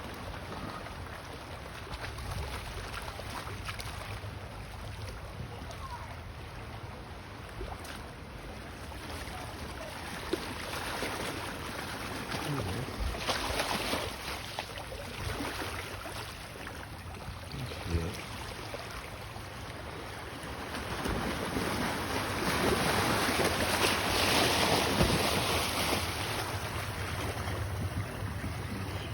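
Ocean waves washing along the shore, with wind buffeting the microphone. The surf swells louder about halfway through and again for several seconds near the end.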